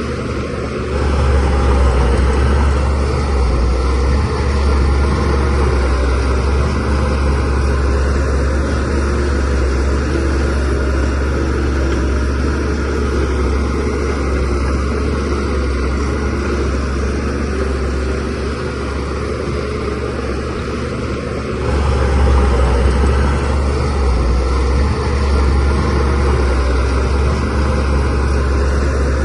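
Diesel engine of a DH17C3 Pro bulldozer running with a deep, steady drone, growing louder about a second in and again about twenty-two seconds in.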